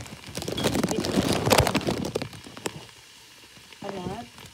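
Chopped kale and vegetables sizzling in a hot pan, with a loud burst of crackling for the first two seconds that then dies down to a quieter sizzle.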